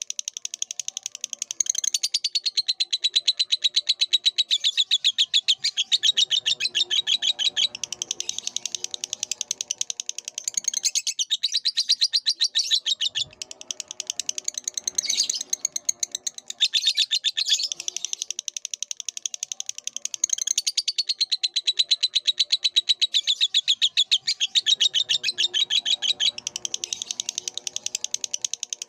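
Lovebird chattering in a long, unbroken run of fast, high chirps. The run carries on without pause, the long-duration chatter prized in song-training (masteran) recordings.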